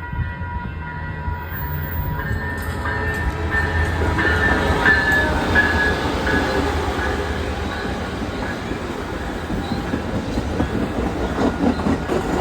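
Amtrak passenger train passing at close range: a steady rumble of wheels on rail with clickety-clack from the rail joints and short wheel squeals. A steady whine fades out about two seconds in.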